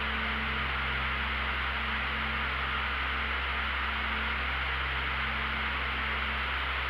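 Light aircraft in flight: a steady, unbroken rush of engine and wind noise, with a low steady hum under it.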